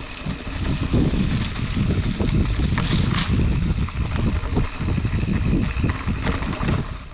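Specialized Chisel hardtail mountain bike rolling fast over a rough dirt trail: a jumbled rumble of tyres, with frequent knocks and rattles from bumps, and wind buffeting the action-camera microphone.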